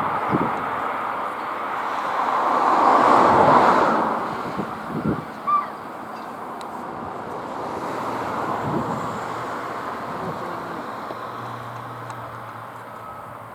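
Airbus A400M Atlas's four Europrop TP400 turboprops at takeoff power during the takeoff roll. It is a broad rushing drone that swells to its loudest about three seconds in and then slowly fades.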